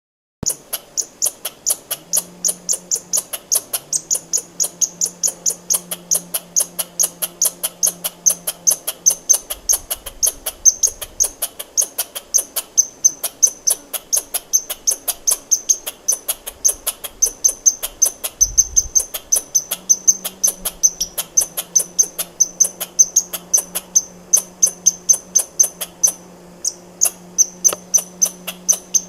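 Squirrel giving a long run of rapid, evenly spaced alarm chirps, about three to four a second, high-pitched and sharp, in an alarm or distress call.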